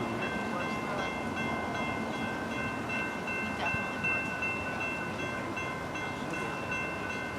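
Train running steadily: an even rumbling noise with several steady high-pitched whining tones held over it.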